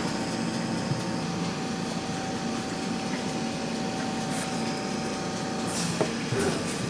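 A steady mechanical hum with a faint high whine that stops shortly before the end, and a light knock near the end.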